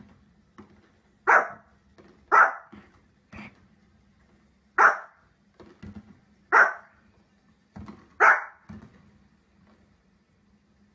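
A small fluffy dog barking in sharp, single barks: five loud ones spaced a second or two apart, with quieter yaps between them.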